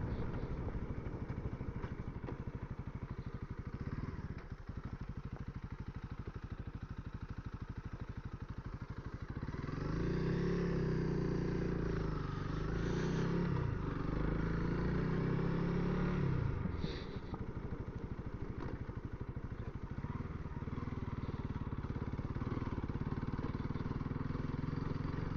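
Honda CRF300L's single-cylinder engine running at low revs, then pulling harder for about seven seconds from around ten seconds in, its pitch rising and falling, before easing back to a steady lower note. Heard through a Sena helmet intercom microphone.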